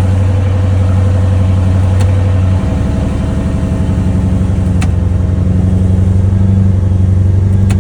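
Lamborghini Urus twin-turbo V8 exhaust running at a steady idle, its low note shifting slightly about two and a half seconds in.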